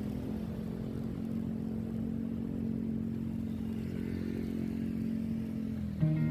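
Motorcycle engine running at a steady speed while riding, a constant low drone with road and wind noise.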